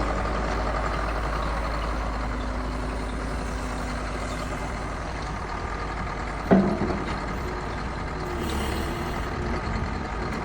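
Heavy diesel engine running steadily, with one sharp metallic clank about six and a half seconds in.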